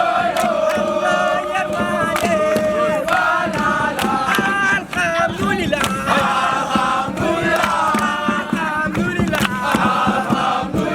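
A group of voices singing a chant together in unison, with many sharp beats running under the singing.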